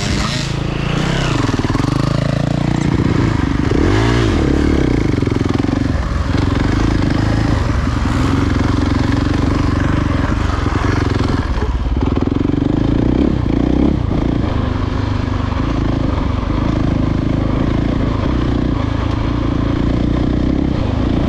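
Dirt bike engine running while being ridden, its revs rising and falling with the throttle in the first few seconds, then holding a steadier note with brief dips.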